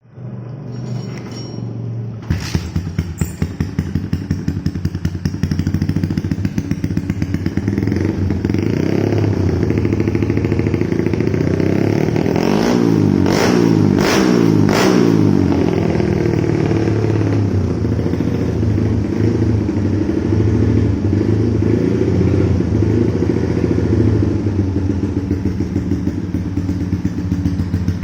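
Yamaha Jupiter MX 150cc motorcycle's single-cylinder four-stroke engine running through an aftermarket Lonerider trioval slip-on exhaust, idling with an even pulsing beat. The sound steps up about two seconds in. In the middle the throttle is blipped a few times with some sharp cracks, and then the engine settles back to idle.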